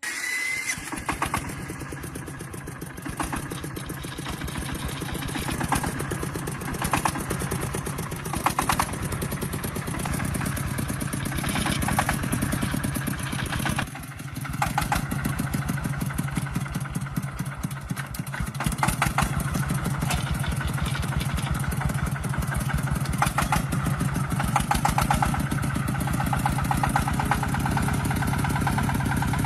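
Truck engine running steadily, with a brief drop in level about halfway through.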